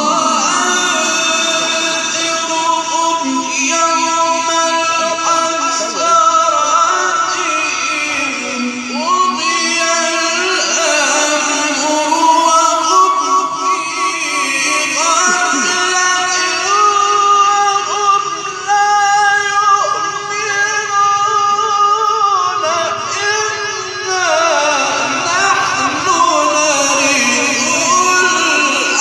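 A man's voice chanting Quran recitation in the melodic mujawwad style: long held, ornamented notes that glide up and down in pitch without a break, amplified through a PA system.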